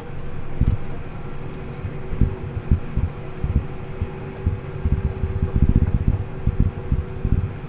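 Tractor engine running at road speed, heard from inside the cab, with a steady whine, and irregular low thumps throughout.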